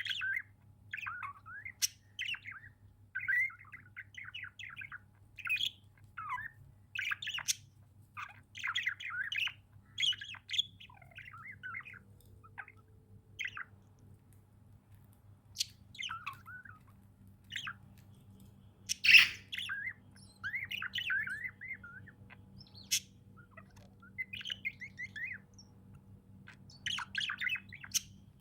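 Pet budgerigars chirping and chattering in short bursts with brief gaps, with one louder squawk about two-thirds of the way through.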